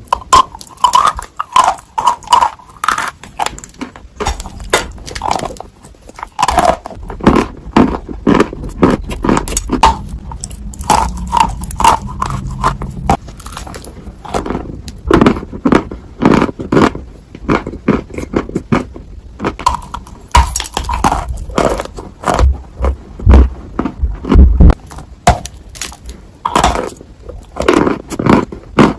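Close-miked biting and crunching of dry Ural clay: irregular sharp cracks and crumbling crunches, one after another with short pauses.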